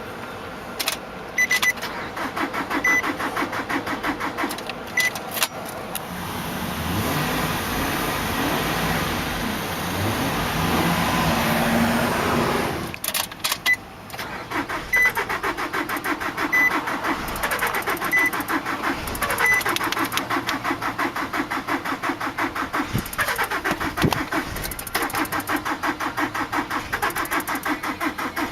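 Starter motor cranking the blown 2.5-litre four-cylinder of a 2003 Nissan Altima in a fast, even rhythm without it firing: the engine lacks the compression to start. A louder, steadier stretch of several seconds comes in the middle before the even cranking goes on again.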